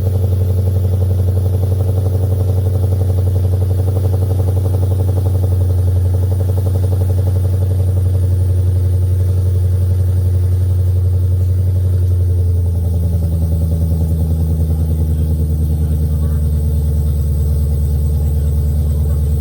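Shelby GT350's V8 idling steadily after a cold start, on the raised idle of a cold engine that has sat for about a month. About twelve seconds in, the idle note shifts down a little and gets slightly quieter as the idle settles.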